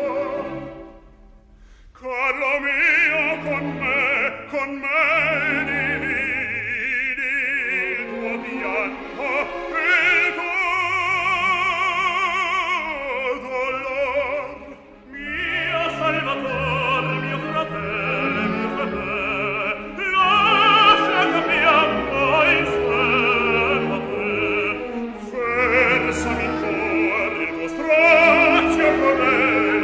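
Operatic singing with orchestral accompaniment: a trained voice with wide vibrato over the orchestra. There is a brief hush just after the start and a short drop about halfway through.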